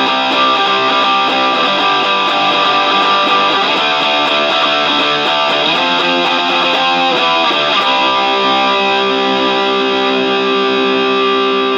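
Guitar-led band music from an original song's demo recording, with strummed electric guitar. About eight seconds in, the playing settles on one chord that is struck and left ringing.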